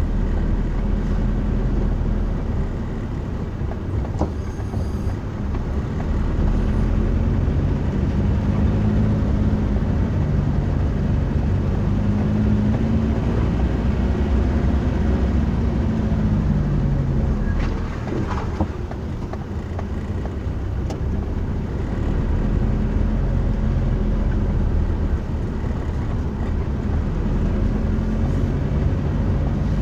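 A motor vehicle on the move: a steady engine and road rumble, the engine note rising and falling slowly several times as it speeds up and eases off.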